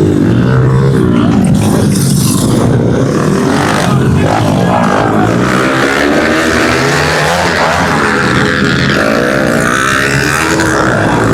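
Several pit bikes racing on the track, their small engines revving up and down and overlapping.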